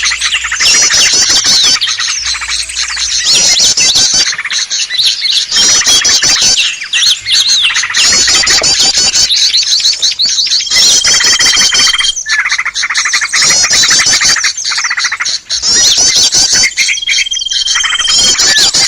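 Loud, dense chorus of small songbirds chattering and chirping rapidly, a lure call played to draw small wild birds in. A long steady whistle sounds twice, about eleven seconds in and again near the end.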